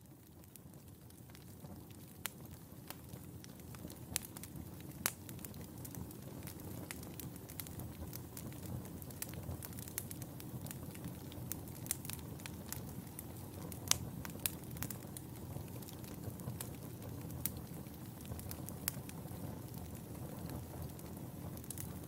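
Wood fire in a fireplace crackling, with irregular sharp pops and snaps over a steady low rustle of burning. It fades in over the first few seconds, then burns on evenly.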